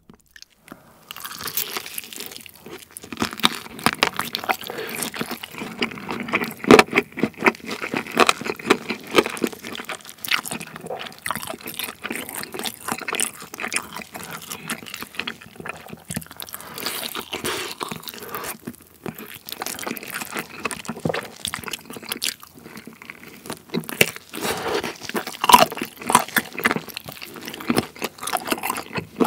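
Close-miked biting and chewing of sauce-coated fried chicken topped with green onion (BHC Matchoking): crisp crunches and wet, sticky chewing in quick succession.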